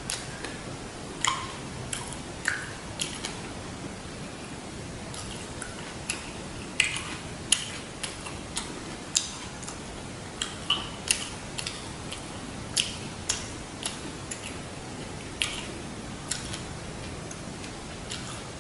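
Close-miked chewing of a fresh rice-paper roll with lettuce and carrot: irregular wet mouth smacks and crisp clicks, a few a second, over a steady hiss.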